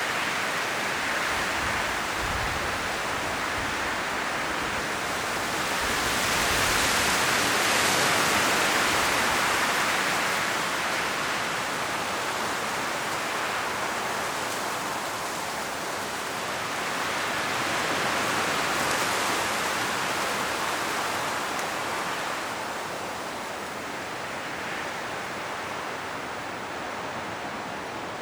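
Strong wind blowing through forest trees, rustling the autumn leaves in a steady rush that swells in gusts about a quarter of the way in and again past the middle.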